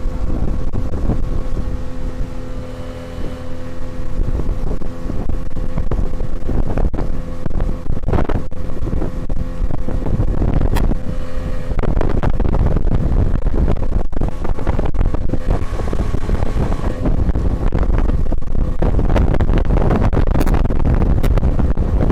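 Tohatsu 9.8 outboard motor running steadily on an inflatable boat, with wind on the microphone. About halfway through, the engine's even tone gives way to a louder, broad rush of wind and water.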